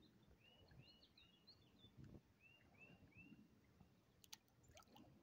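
Near silence with faint bird chirps: short rising-and-falling notes in quick runs of three or four, twice, and a faint click or two about four seconds in.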